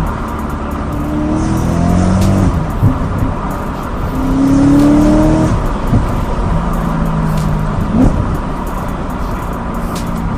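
BMW M3 E92's 4.0-litre V8 with an Akrapovic exhaust, revving repeatedly with the pitch climbing and dropping, and a few sharp cracks. Background music plays along with it.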